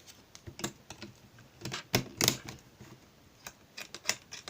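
Irregular light clicks and taps of small plastic electronic-kit parts and batteries being handled and snapped into place, about ten in all, clustered around the middle.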